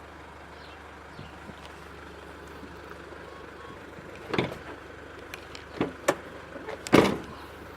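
A few sharp clicks and clunks from a Mitsubishi Shogun's interior fittings being handled, with the loudest thud about seven seconds in, over a steady low hum.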